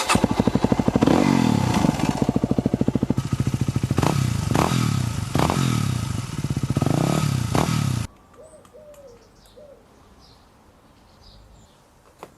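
2010 Yamaha WR250X's single-cylinder four-stroke engine, with the exhaust baffle fitted, catching and idling, then revved in several quick throttle blips. It cuts off suddenly about eight seconds in.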